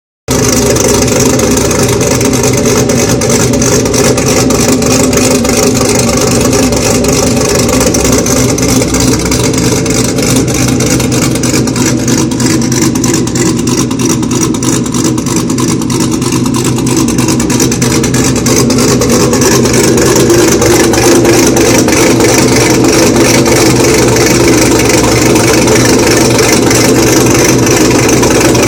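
Supercharged 2010 Chevrolet Camaro engine with an aggressive camshaft, idling with a rough, uneven idle from the cam. It runs steadily and grows slightly louder about two-thirds of the way through.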